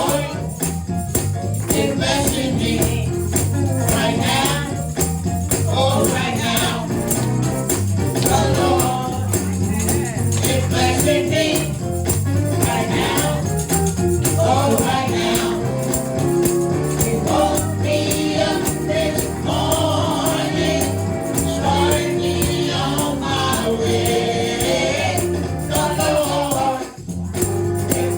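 Church praise team singing a gospel song in chorus over live band accompaniment with a steady beat.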